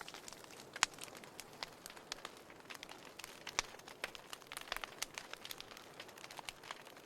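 Fire in a fireplace crackling: irregular pops and snaps over a faint hiss, the sharpest about a second in and again about three and a half seconds in.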